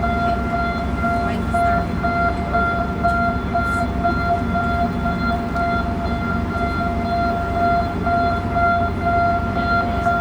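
Panama Canal lock's warning alarm sounding a steady high electronic tone that pulses in level, over a low rumble.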